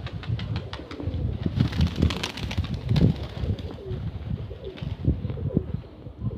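Nikolaev pigeons cooing in short, repeated rising-and-falling calls. Strong wind buffets the microphone with a gusty low rumble.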